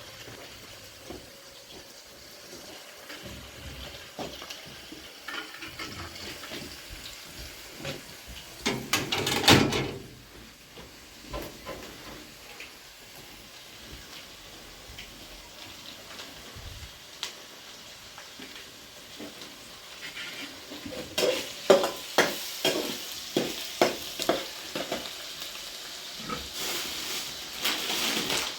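Cooking sounds: pots, pans and utensils being handled, over a faint sizzle of something frying. A louder rush of noise comes about nine seconds in, and a run of sharp knocks and clatters comes about twenty-one to twenty-five seconds in.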